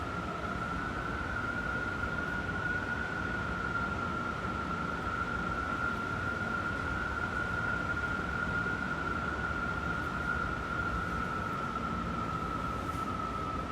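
Strong wind howling: one long, high whistling tone that drifts slightly up and down in pitch over a steady rush of wind.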